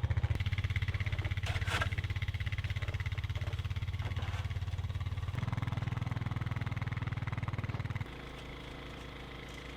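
Engine of a snow-plowing vehicle running with a steady low pulsing throb. It gets louder about five and a half seconds in, then drops sharply to a quieter steady hum about eight seconds in.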